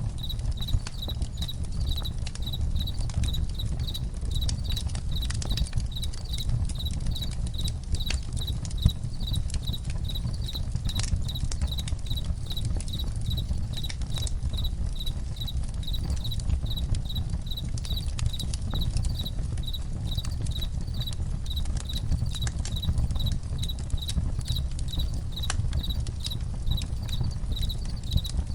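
Crickets chirping in a steady, rapid pulse, over a campfire crackling with scattered sharp pops and a low steady rumble.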